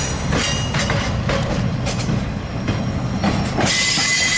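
Freight train cars rolling past, a steady rumble with the wheels knocking over rail joints. A high, steady wheel squeal comes in near the end.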